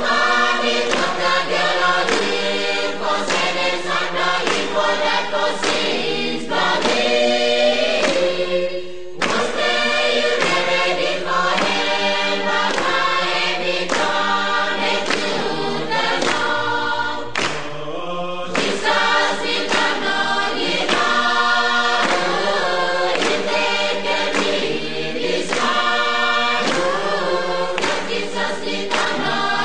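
Choir singing: several voices in harmony, with sustained sung notes.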